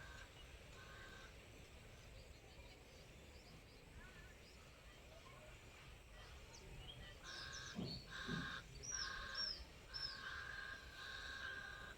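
Faint birds calling outdoors: from about seven seconds in, a run of short calls repeats every half second or so, with three quick falling high notes near the middle.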